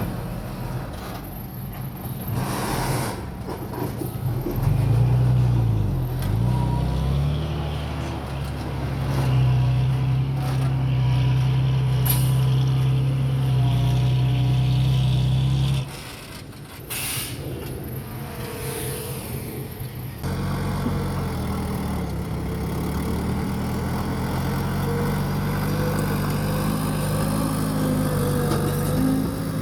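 Heavy diesel earthmoving machinery running hard under load, its pitch dipping briefly and recovering about six seconds in. Partway through it drops off suddenly, then returns at a lower, steady level. Short bursts of hiss come about three seconds in and again around seventeen seconds.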